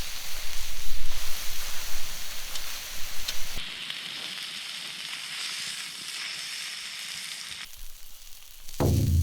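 Wild boar meat sizzling as it fries on hot iron, louder in the first few seconds, then a steadier, quieter hiss. Near the end a falling tone drops into a low held note as music comes in.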